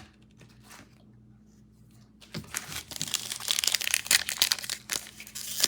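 Trading card pack wrapper being torn open and crinkled, starting about two and a half seconds in as a dense, loud crackle.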